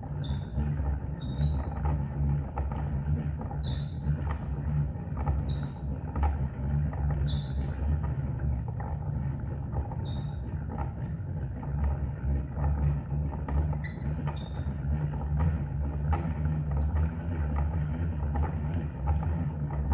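A vehicle engine running with a steady low rumble that swells and eases, with short high chirps every second or two.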